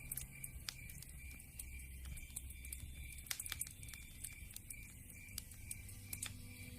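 Wood fire crackling in a fireplace: irregular sharp pops and snaps scattered over a low, soft rumble.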